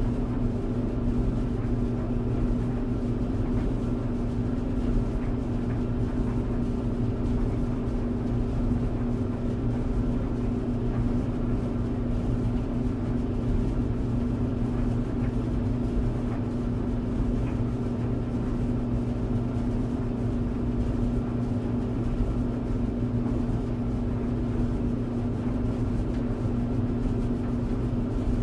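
Clothes tumble dryer running steadily: an even motor hum over the rumble of the turning drum.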